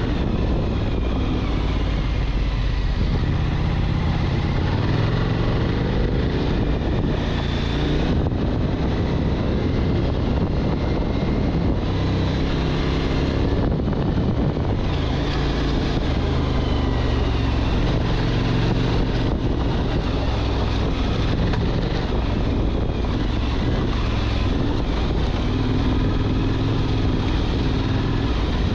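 Motorcycle engine running under way, its pitch shifting a little as the throttle changes.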